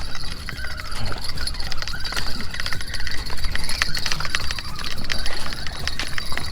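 Fishing rod and reel worked while a porgy is being reeled in: rapid irregular clicking and jingling over a steady hiss.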